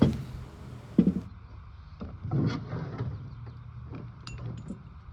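Tools and small parts being handled on a workbench: two sharp knocks about a second apart, a short rustle, then scattered light clicks.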